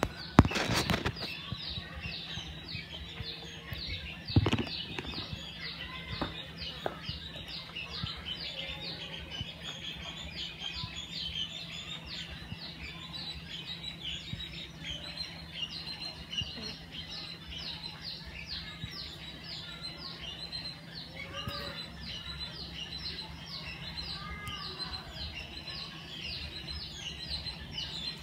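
Birds chirping steadily, a quick falling chirp repeated a couple of times a second. A loud knock comes just after the start and a duller thump about four seconds in.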